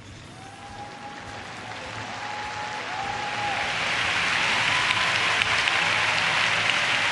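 Arena crowd applause swelling to a loud, steady ovation at the end of a figure skating program.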